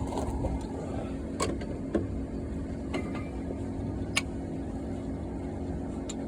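A few light clicks and knocks from handling a brake caliper and tools, over a steady low rumble.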